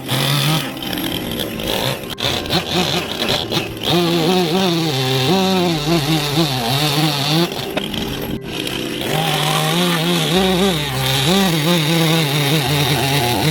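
Chainsaw carving wood, its engine pitch rising and falling as the cut loads and eases, with a brief drop about eight seconds in.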